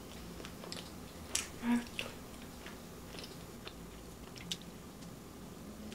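Biting and chewing a homemade egg tart, its flaky pastry crust giving scattered crisp crunching clicks, the loudest about one and a half seconds in.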